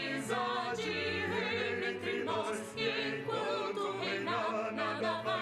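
A choir sings a slow carol, with long held notes and vibrato in the voices.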